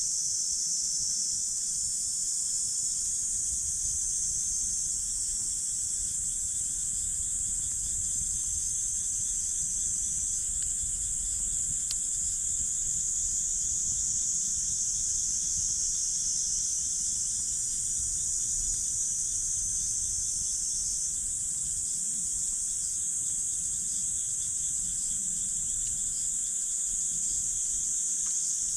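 Steady, high-pitched chorus of insects that never lets up, over a low, uneven rumble.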